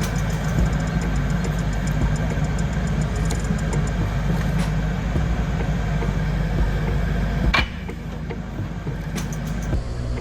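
An engine running steadily with a deep, low rumble. About three-quarters of the way through there is a sharp click, and the sound drops to a quieter running noise.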